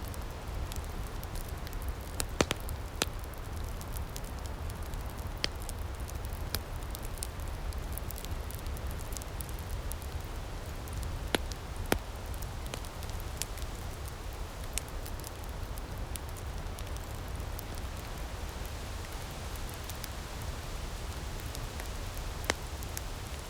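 Outdoor wood fire crackling steadily, with a handful of sharper pops scattered through, over a low steady rumble of breeze.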